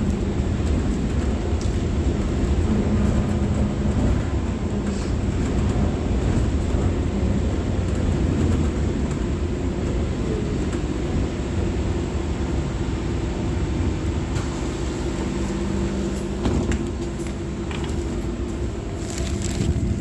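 SVARZ-6235 trolleybus in motion, heard on board: a steady low rumble from the road and running gear, with a few clicks and rattles in the last few seconds.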